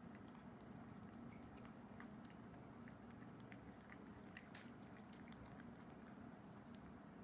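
A kitten eating wet cat food: faint, irregular small wet chewing and licking clicks over a steady low hum.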